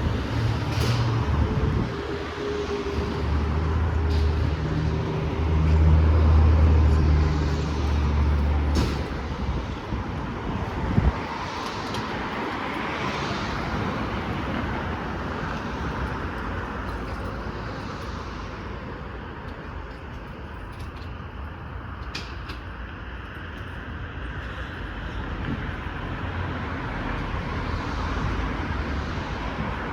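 Fire truck's diesel engine running loud and low as it moves off, with a few held low tones over it for the first eight seconds or so. It then fades into a steady street traffic hum.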